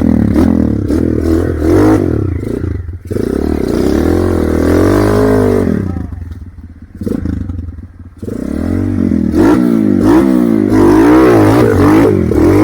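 Motorcycle engine revving hard, its pitch swinging up and down again and again under the throttle, with clattering from the bike. The revs drop away briefly about six seconds in and again near eight seconds.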